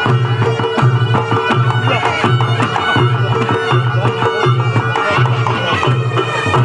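Live Reog Ponorogo gamelan accompaniment: hand drums beat fast and busily over a low tone pulsing in an even beat, about one and a half pulses a second. High, wavering reed-horn notes run over the top.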